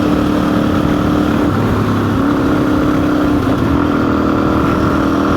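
Custom-built motorcycle's engine running under way. Its steady note breaks and changes pitch twice, about a second and a half in and again near three and a half seconds.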